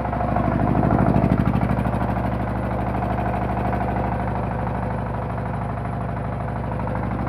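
Bharat Gold 14 hp single-cylinder diesel engine running a 10 kVA generator, a steady, even thumping beat that grows louder over the first second and then holds.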